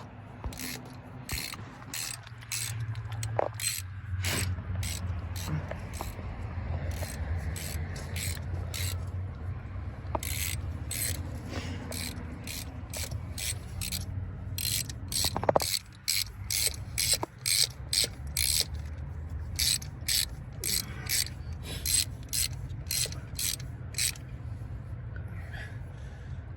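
Rhythmic mechanical clicking, a sharp click roughly every half second, over a steady low hum. The clicking stops near the end.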